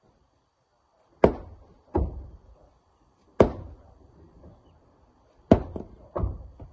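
Five heavy thuds of rock being struck or landing hard, irregularly spaced, each with a short ringing tail.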